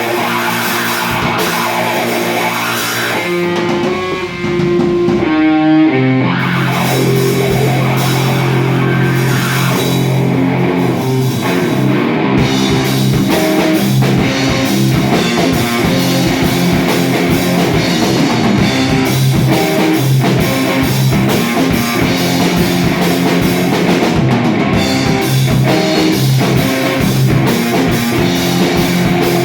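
Live rock band playing, with electric guitar and drum kit. About four seconds in the band drops to a thinner held passage, then comes back in fuller and a little louder about six seconds in.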